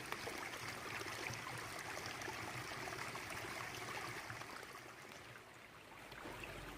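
A small brook babbling over stones, a steady rush of flowing water that dips briefly near the end.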